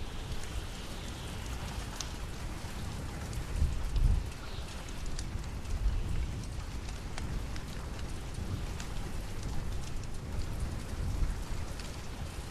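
Steady rain falling, with scattered sharp clicks throughout and a low rumble that swells about four seconds in.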